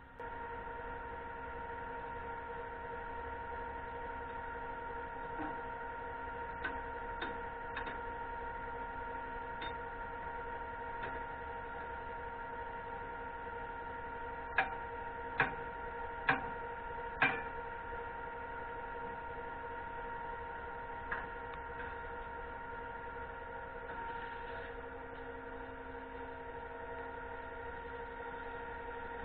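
Steady machine hum at one unchanging pitch. About halfway through there are four sharp knocks roughly a second apart, with a few fainter clicks before and one after.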